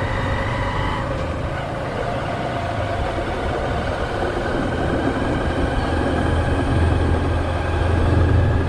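Hero Hunk motorcycle's single-cylinder four-stroke engine running at low road speed, a steady low hum that grows a little louder toward the end.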